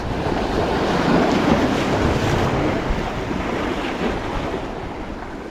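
Wind buffeting the microphone over the rush of surf, easing off slightly toward the end.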